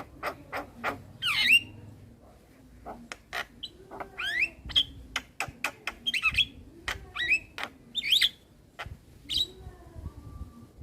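Male Javan myna singing: a busy run of sharp clicks, squawks and short whistled notes that sweep up and down, in quick broken phrases with a brief lull about two seconds in.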